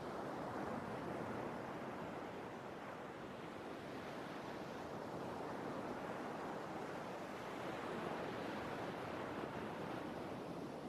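Sea waves washing on the shore, a steady rushing surf with gentle swells in level.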